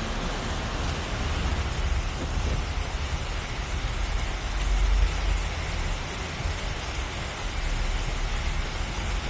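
Heavy rain falling steadily, with a deep rumble underneath that swells about halfway through.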